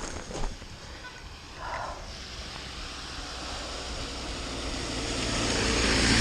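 Mountain bike descending a rocky trail: a few sharp rattles of the bike over stones at the start, then a rising rush of wind on the microphone and tyre noise that builds steadily as the bike picks up speed, loudest near the end.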